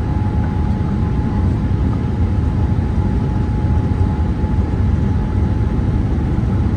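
Steady cabin noise of a Boeing 787-8 Dreamliner in flight: a constant deep rush of airflow and engine noise, with a faint steady whine above it.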